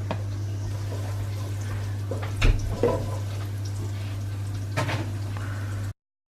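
Chopped garlic sizzling in toasted sesame oil in a frying pan, a steady hiss over a low hum, with a few short clatters about two and a half seconds in and again near the end. The sound cuts off abruptly shortly before the end.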